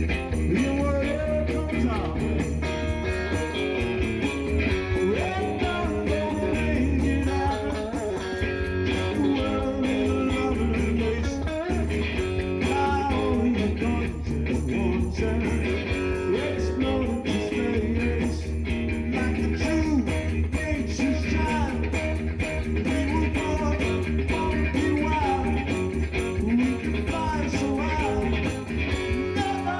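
Live blues-rock music with electric guitar playing over a steady bass.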